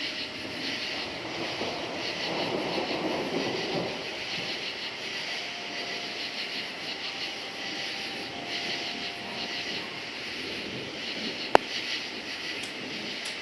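Crickets chirping in a steady pulsing chorus over the low rumble of distant thunder, which swells about two to four seconds in. One sharp click sounds near the end.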